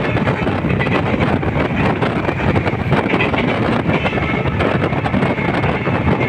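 A moving train, with a steady loud rumble of wheels on the track and a faint high squeal running through it. Wind buffets the microphone.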